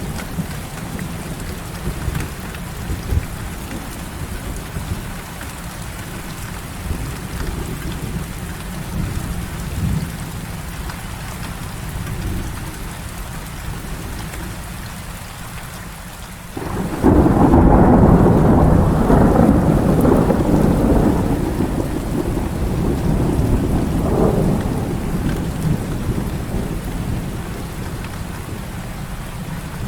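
Heavy rain falling steadily with low rumbles of thunder. A little past halfway a loud thunderclap breaks in suddenly and rolls on for several seconds, swelling once more before easing back into the rain.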